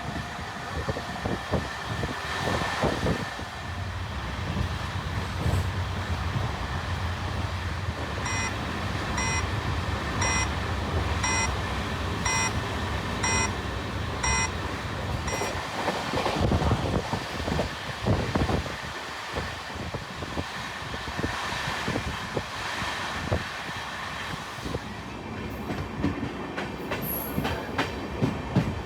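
Passenger train running at speed, heard from inside an LHB coach: a steady rumble with scattered wheel knocks and rattles. Midway there is a run of about eight short beeps, roughly once a second.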